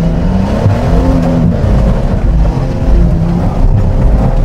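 A stock Lada Niva's engine running under load as the car drives along a flooded forest track, heard from inside the cabin. Its note rises and falls with the throttle.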